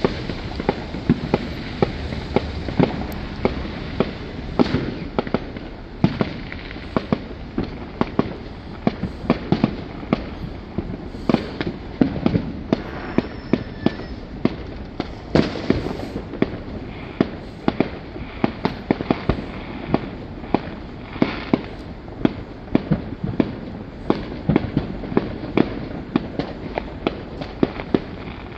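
Many fireworks going off at once, a dense run of sharp bangs and cracks, several a second, over a continuous rumble of more distant bangs.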